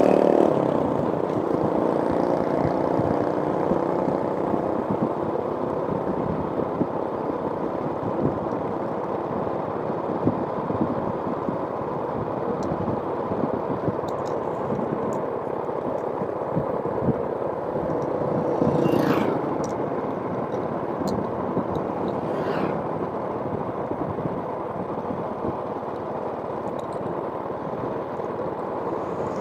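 Steady road-traffic noise, with vehicles going by twice, about two-thirds of the way through.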